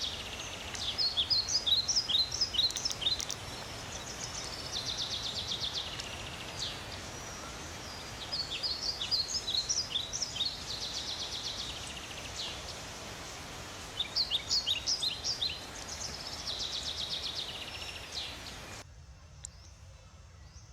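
Bird song repeating in phrases: a fast high trill alternating with runs of short, falling chirps, the pattern coming round about every six seconds over a steady low background hum. It cuts off abruptly near the end.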